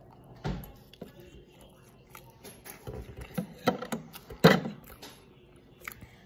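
Close-up chewing and mouth sounds of a person eating a mouthful of banana pancakes, with scattered short knocks and handling noises. The loudest comes about four and a half seconds in.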